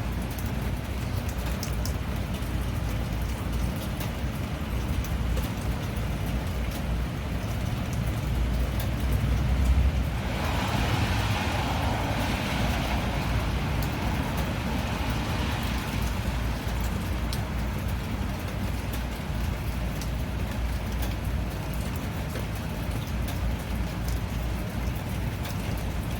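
Steady rain falling, with a constant low rumble underneath. About ten seconds in, a louder rushing hiss swells up and fades away over the next several seconds.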